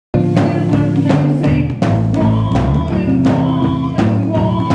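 Loud live band music with a steady drum beat, about one hit every 0.7 seconds, under sustained bass and guitar notes; it starts abruptly just after the beginning.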